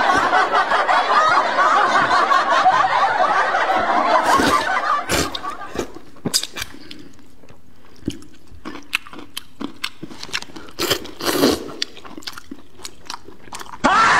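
About five seconds of laughter, then close-up eating sounds: chewing and crunching of cold noodle sheets, with many short sharp clicks. A loud burst of sound comes in near the end.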